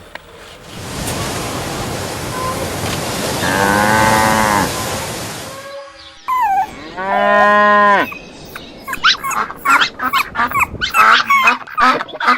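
Cattle mooing: one long moo about four seconds in over a rushing noise, and a second clear moo about two seconds later. A rapid run of short, sharp sounds follows near the end.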